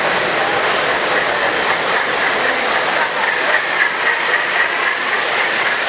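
A model train running on a layout amid the steady hubbub of a crowded exhibit hall, with a faint high wavering tone through the middle.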